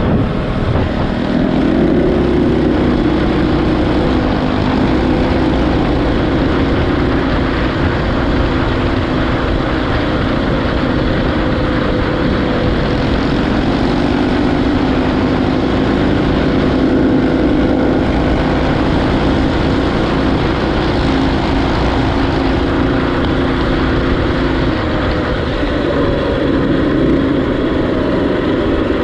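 Small single-cylinder motorcycle engine running under way, its pitch rising and easing several times with the throttle.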